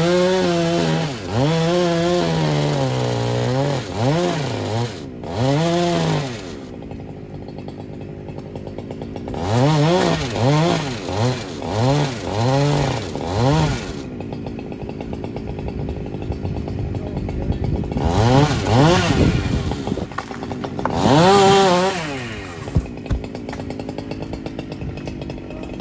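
Two-stroke chainsaw revved up and down in a series of short bursts, dropping back to a lower idle between them, with a longer stretch of idling about halfway through.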